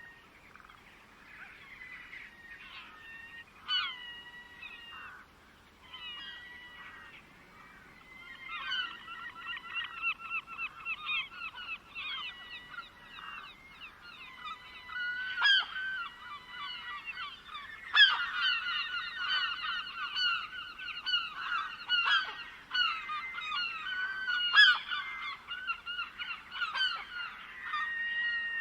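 A flock of birds calling: scattered calls at first, thickening into a dense chorus of rapidly repeated calls about eight seconds in, with a few louder sharp calls standing out.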